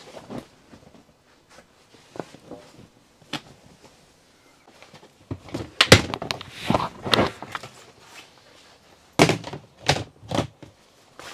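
A run of knocks and thuds, something being handled or set down: a few light clicks, then a dense cluster of knocks about halfway through and another near the end.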